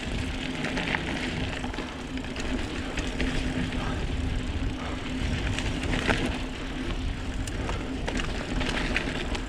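Voodoo Bizango mountain bike being ridden down a dirt trail: a steady rush of tyre and wind noise with a constant low hum, broken by scattered knocks and rattles over bumps.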